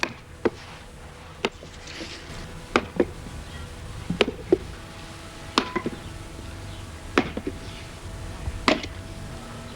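Wooden mallet striking a heavy splitting axe driven into a log, a series of sharp knocks at an uneven pace, roughly one a second.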